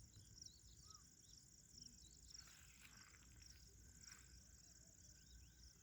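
Near silence, with faint, steady, high-pitched insect chirring and a few small, soft chirps.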